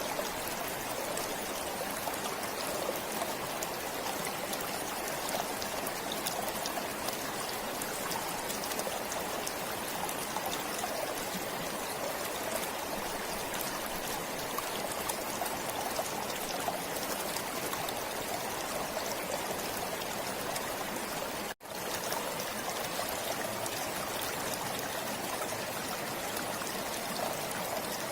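Stream water flowing steadily, an even rush of running water, broken by a momentary dropout about three-quarters of the way through.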